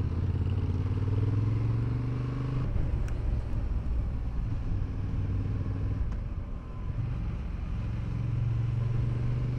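Motorcycle engine running while riding. Its steady low note drops away a few seconds in, then builds again near the end.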